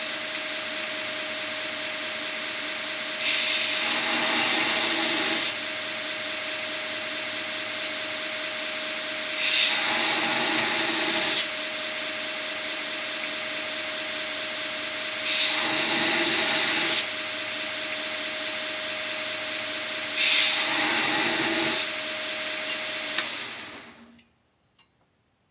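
Origin Blade Maker belt sander running with a freshly fitted coarser belt, its motor giving a steady hum. Four times, for about two seconds each, something is pressed against the belt and a louder grinding hiss rises over it. The motor is switched off near the end and the sound dies away quickly.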